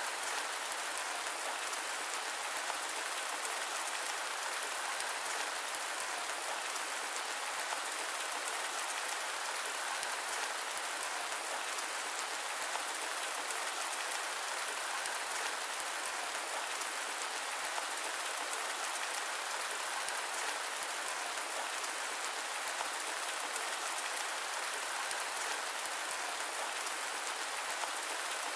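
Steady, unbroken rain, an even hiss of many drops with no deep rumble and no thunder.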